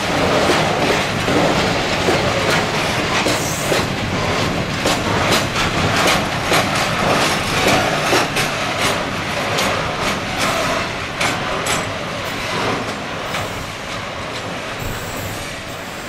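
A train rolls past on the track. The wheels click repeatedly over rail joints, and now and then there is a brief high wheel squeal. The sound gets quieter toward the end as the train moves away.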